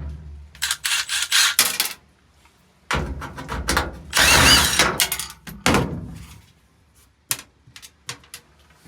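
Tool work on 5/16 hose clamps: a cluster of sharp metallic clicks and knocks in the first two seconds, then a longer burst of tool noise from about three to six seconds in, ending in a few scattered small knocks.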